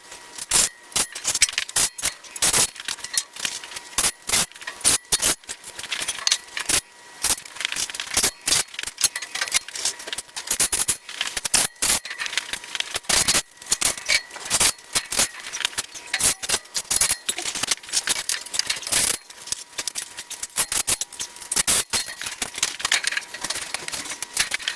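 Dense, irregular clicking and clattering throughout, from work installing wooden floor joists on a frame.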